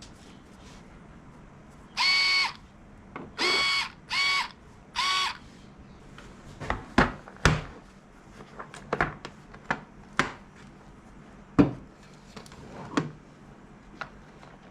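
Bosch cordless electric screwdriver running in four short bursts, each a steady high whine lasting about half a second. After them come a series of sharp clicks and knocks.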